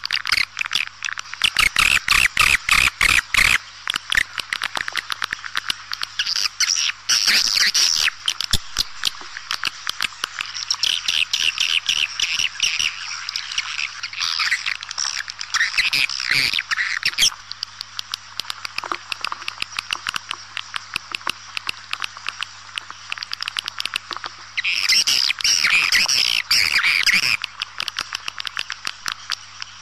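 Swiftlet calls from a lure recording used to call swiftlets: a fast, continuous run of sharp clicking chirps, broken by several louder bursts of dense twittering lasting a few seconds each. A faint steady hum lies under it.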